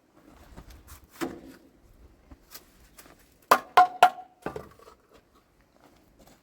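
Objects being handled: scattered knocks and clicks, then three sharp, ringing clinks in quick succession about three and a half seconds in.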